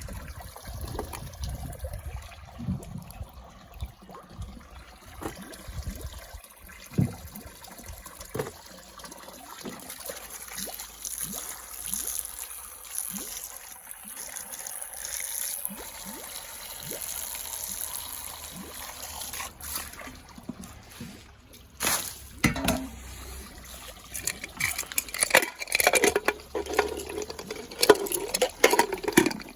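Water trickling and splashing, with scattered knocks and clinks throughout, busier and louder near the end.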